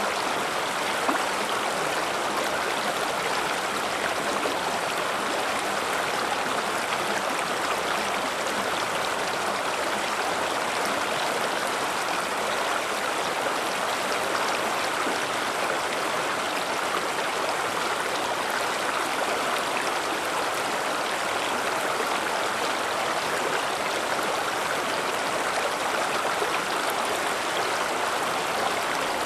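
River water flowing over rocks: a steady, even rush with fine splashing and gurgling.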